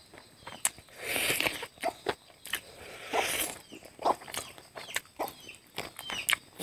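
Close-miked eating sounds: chewing and crunching on a boiled chicken leg with wet mouth clicks, and two louder crunching bites about a second and three seconds in.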